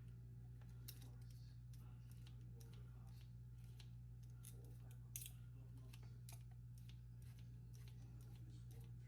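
Faint, irregular snips and clicks of cooked chicken being cut into smaller pieces, a few a second, with one slightly louder click about five seconds in.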